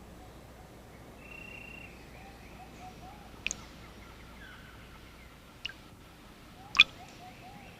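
Rainforest ambience with faint, repeated short bird chirps. Three sharp clicks stand out, the loudest about two-thirds of the way through.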